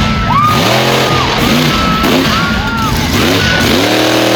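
Monster truck engine revving hard in repeated bursts, the pitch climbing and dropping back several times, with a long climb near the end.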